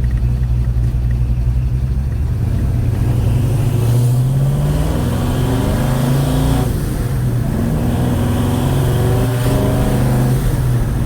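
1956 Chevy Bel Air's 307 small-block V8 accelerating under load, its note rising in pitch and dropping back about three times as it is shifted up through the gears of a four-speed manual.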